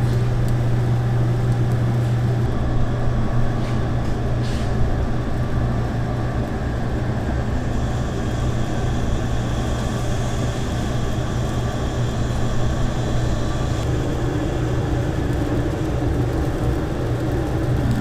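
A steady, loud low mechanical drone over a constant rushing noise.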